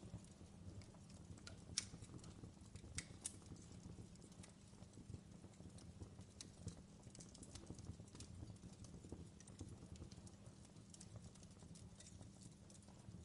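Fireplace crackling faintly: irregular small pops and snaps, a couple of sharper ones in the first few seconds, over a low steady hum.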